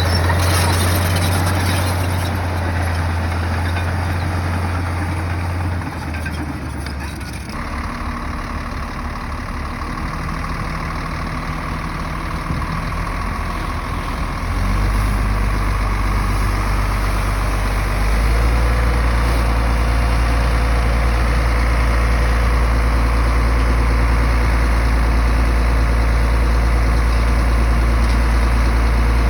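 Bulldozer's heavy diesel engine running with a steady low drone that shifts in pitch and load several times, settling into a louder, steady drone after about eighteen seconds.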